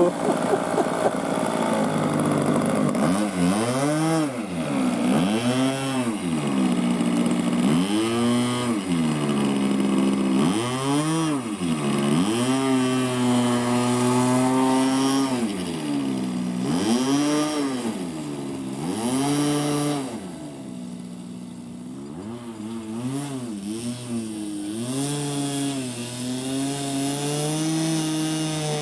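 Fuel-engined RC model aircraft flying. Its engine note rises and falls in pitch about every two seconds as it makes passes and manoeuvres, drops quieter for a few seconds about two-thirds of the way through, then holds a steadier, higher note near the end.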